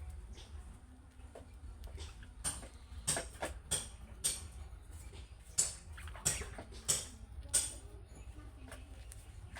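Budgerigars chirping: a quick, irregular run of short, sharp chirps over a low steady hum.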